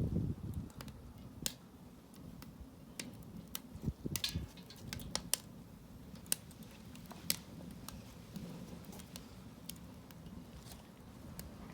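Wood burning in a fire barrel, crackling with irregular sharp pops over a low steady rumble.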